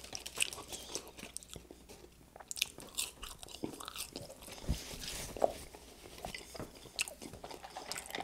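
Close-miked chewing of a mouthful of French fries gone cold, heard as irregular mouth clicks and smacks.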